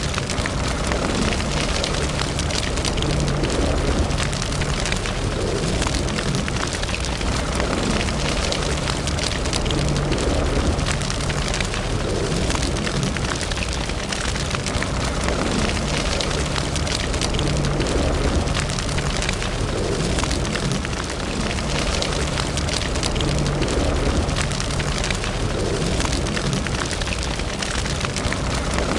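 Fire in a fireplace crackling steadily, with many small pops over a low, constant rumble.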